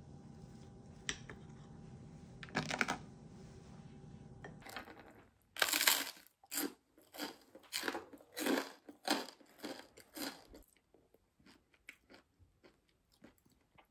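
Crunchy chewing of toasted bread close to the microphone, about two loud crunches a second for around five seconds. A brief scrape comes a few seconds earlier over a low room hum.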